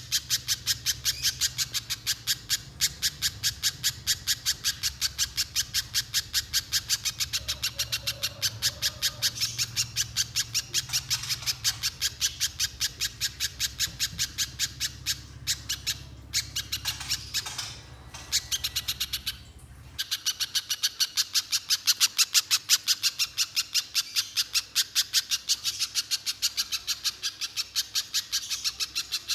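Little spiderhunter calling in a fast, even run of sharp, high repeated notes, about three to four a second, with a brief break roughly two-thirds of the way through.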